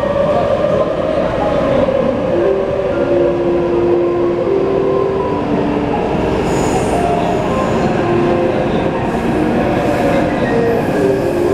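Taipei Metro C371 electric train running: a steady rumble of wheels on the track, with the motors' whine shifting through a series of steady tones.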